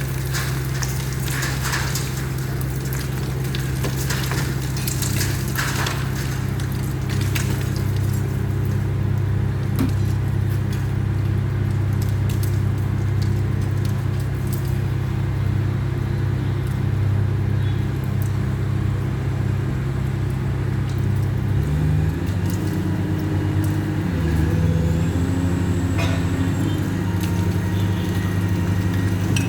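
Engine of a large demolition machine running steadily under load; its note steps up about two-thirds of the way through. Scattered cracks and crunches sound over it, mostly in the first third.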